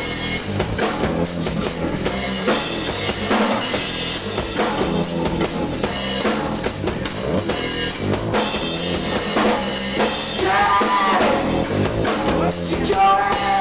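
Live band with a loud drum kit playing rock music, kick and snare to the fore. Pitched lines cut through about ten seconds in and again near the end.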